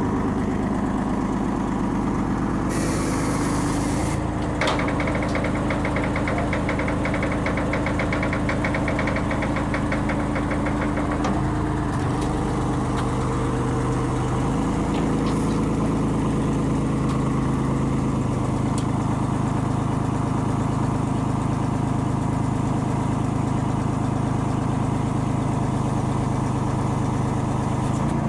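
Crane's engine running steadily under a lift, its speed shifting up and down a couple of times. A fast, fine ticking runs alongside for several seconds about five seconds in, with a few sharp clicks.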